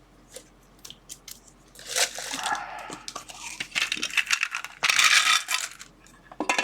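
Small hard plastic and metal items clinking and rattling, likely USB adapters handled in a plastic parts drawer, with two louder clattering bursts about two and five seconds in.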